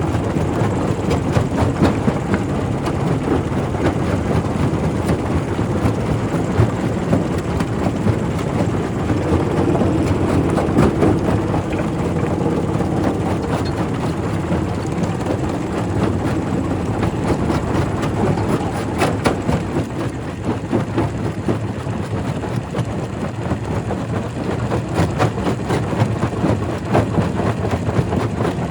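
Quarry primary rock crusher running under load: a steady heavy rumble with a constant stream of knocks and cracks as stone is broken.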